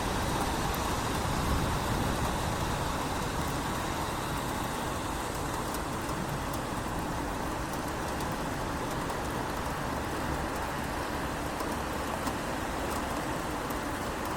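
Steady rain falling in a city, an even hiss with faint scattered drip ticks and a low rumble underneath that fades over the first couple of seconds.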